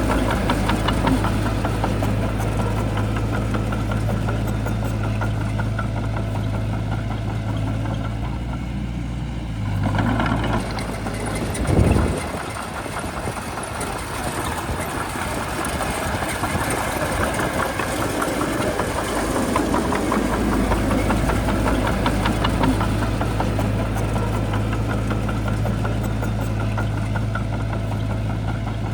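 Diesel engine of a Shantui crawler bulldozer running steadily under work, with a constant low hum. There is a short loud burst about twelve seconds in, after which the hum eases until about twenty seconds in and then returns.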